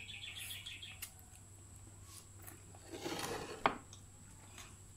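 Eating sounds at a table: faint chewing and small clicks, then a short rustle-like noise about three seconds in and a single sharp click of a utensil on a dish just after.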